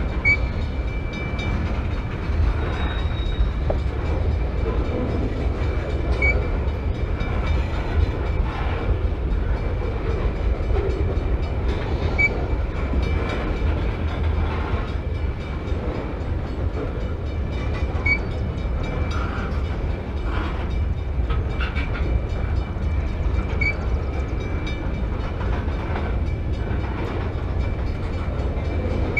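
Freight train of tank cars rolling past close by: a steady low rumble of steel wheels on the rails, with a short high squeak about every six seconds.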